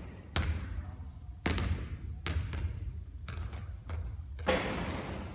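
A basketball bouncing hard on a court floor: about six sharp, echoing thuds at uneven intervals.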